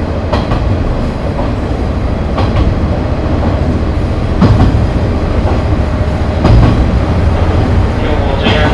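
KiHa 30 diesel railcar running, heard from aboard: a steady low rumble of engine and running gear, with a sharp wheel knock over the rail joints about every two seconds.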